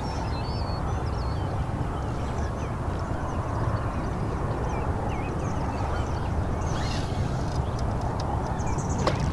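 Steady outdoor rumble by the water, heaviest in the low end, with birds chirping and calling now and then, a few calls near the start.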